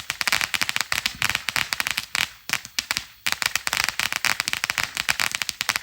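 Consumer firework cake, a Black Cat 'Golden Silver Treasure', crackling: a dense, rapid run of sharp pops and crackles that thins briefly midway and cuts off suddenly at the end.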